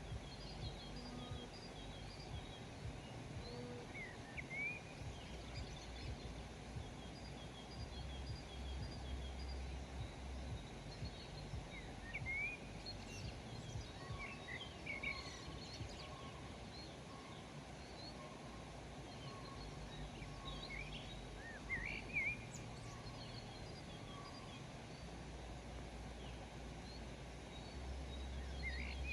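Small birds chirping and calling in short, scattered notes over a steady outdoor hiss, with a faint low rumble coming and going.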